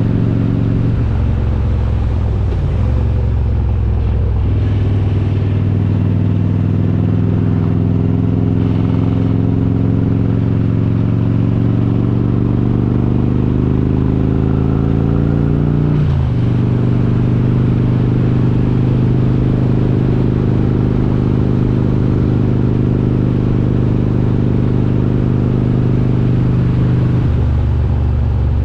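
Harley-Davidson Road King's S&S 95-cubic-inch V-twin engine under way, its note rising slowly as it pulls in gear. It drops suddenly with an upshift about 16 seconds in, then holds steady at cruise.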